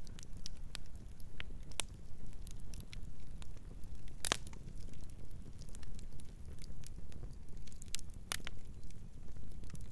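Wood fire burning with a steady low rumble of flames and irregular sharp crackles and pops, two louder pops about four and eight seconds in.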